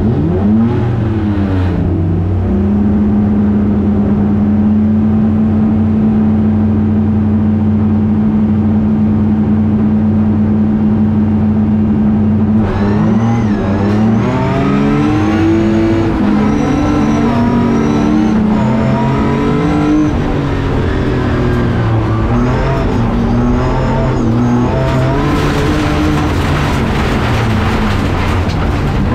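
Rally car engine heard from inside the cockpit, held at steady raised revs on the start line for about ten seconds. About 13 seconds in the car launches and accelerates hard through the gears, the engine note rising and dropping with each shift. Near the end a loud rushing noise joins the engine.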